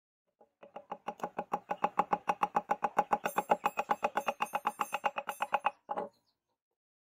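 A fast, even series of light knocks, about eight or nine a second for some five seconds, ending in a short burst.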